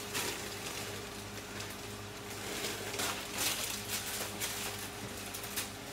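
Frozen mixed vegetables sizzling in a hot frying pan with chicken and shrimp: a steady frying hiss that swells louder now and then.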